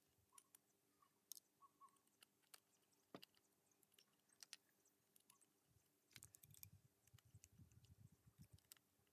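Near silence: faint scattered clicks and a few soft low thuds, mostly in the second half, over a faint steady hum.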